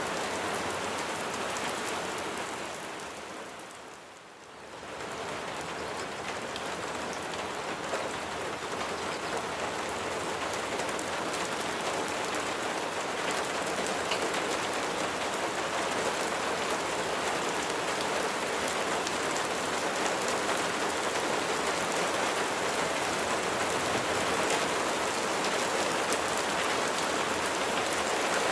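Steady rain falling on a surface, a dense hiss flecked with many individual drop impacts. The sound fades down briefly about four seconds in, then comes back and holds steady.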